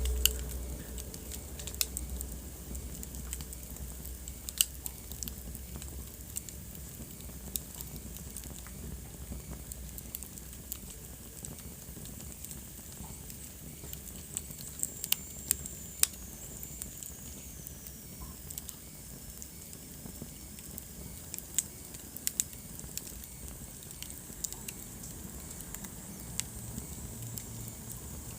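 Wood fire burning in a fireplace: a steady low hiss with frequent sharp crackles and pops. Around the middle, a faint high whistle sounds for several seconds, slowly falling in pitch.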